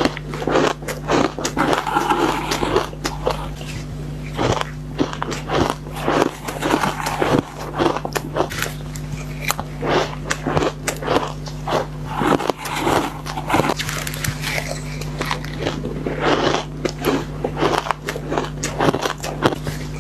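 Shaved ice being bitten and crunched by the spoonful, close to the microphone: many quick, irregular crunches in clusters, over a steady low hum.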